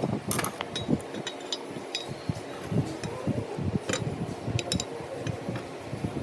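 Irregular clinks, taps and light knocks of metal parts and hand tools being handled, several sharp ticks scattered among them.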